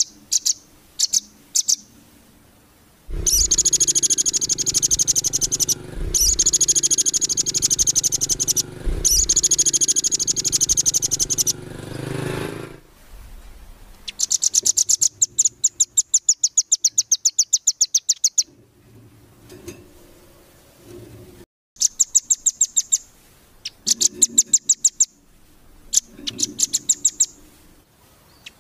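Small songbird's rapid 'nembak' trills: fast strings of high, clipped notes in bursts of one to two seconds, after a few short chirps at the start. A low rumble runs under the longer bursts in the first half.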